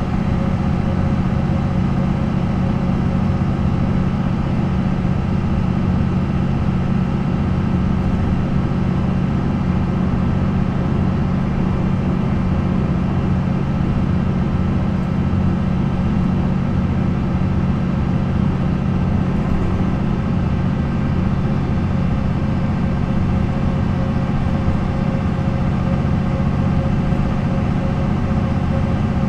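MAN NL 263 bus's D28 inline-six diesel engine running steadily at a constant speed, its note unchanging throughout.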